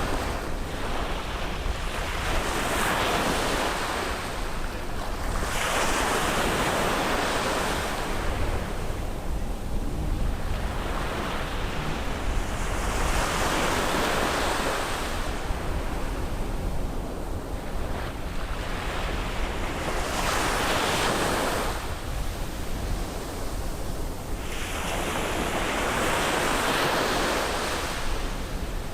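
Sea surf breaking on a beach: waves wash in and draw back one after another, swelling and fading about every four to six seconds. A steady low rumble of wind on the microphone runs underneath.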